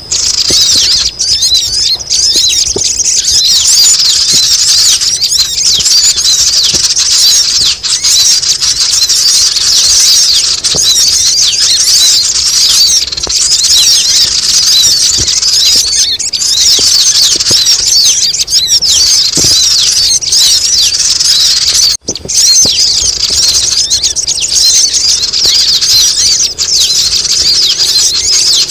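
Lure recording of sogon birds: a dense, continuous chorus of many high, thin, rapid twittering calls, used to draw wild sogon down. The chorus drops out briefly about 22 seconds in.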